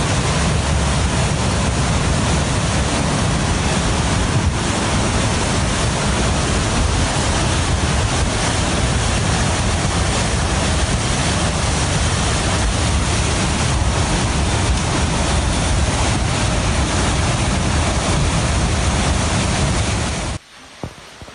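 Loud, steady roar of wind and rough water, with wind buffeting the microphone. It cuts off abruptly near the end.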